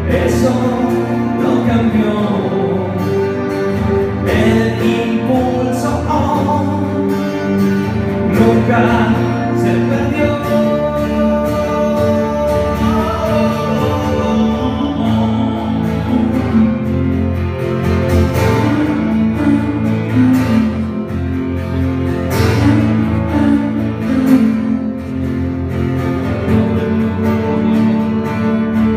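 A live band plays an instrumental passage of a rock song, guitar to the fore over a steady bass, with drum and cymbal hits throughout.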